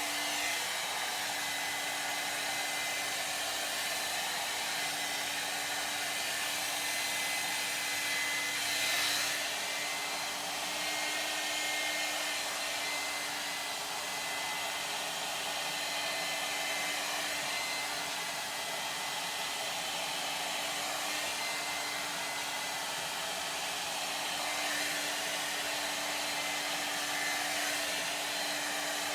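Ionic hair dryer running steadily while drying hair: an even rush of air with a steady hum under it. It swells briefly about nine seconds in.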